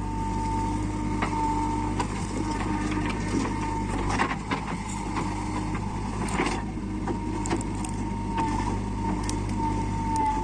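Diesel engine of a JCB 3DX backhoe loader running steadily under load with a steady whine, and a burst of clattering and rattling about four seconds in and again about six and a half seconds in as the bucket dumps soil.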